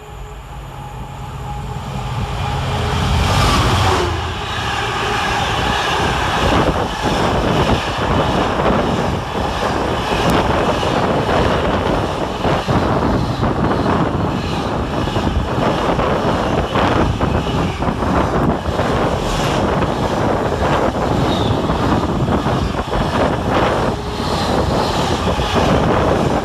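Class 66 diesel-electric locomotive running through at speed, its two-stroke engine building up and loudest about three to four seconds in, then a long freight train of wagons following with a steady rumble and repeated clacking over the rail joints.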